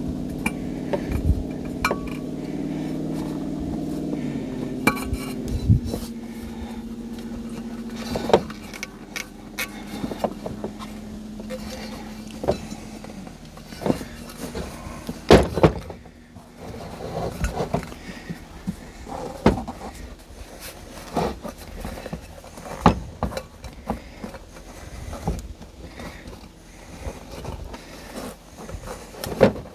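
A motor vehicle's engine running steadily, stepping down in pitch a few times and fading after about thirteen seconds. Sharp knocks and clanks throughout as a new inner tube is worked into a tractor tire.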